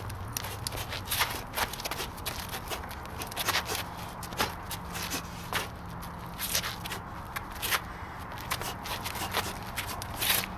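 Irregular scraping and tapping, several clicks a second, of a tool working wet cement mix, with a faint steady low hum underneath.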